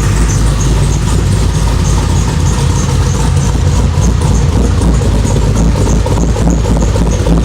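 Whipple-supercharged 6.2-litre V8 of a 2011 Chevrolet Camaro SS idling steadily with the hood open, with a faint regular high tick about twice a second.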